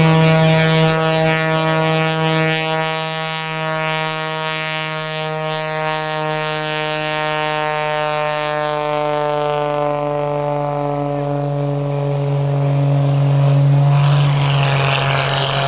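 Modified Pitts S2S Viper aerobatic biplane's 400-horsepower engine and propeller in flight just after takeoff, a steady drone whose pitch sinks slowly.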